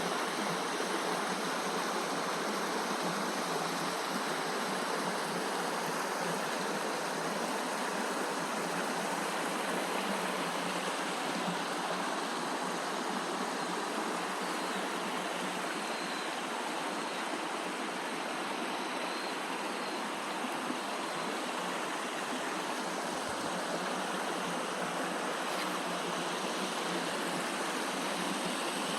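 Mountain stream in a rocky valley, water rushing steadily with no change.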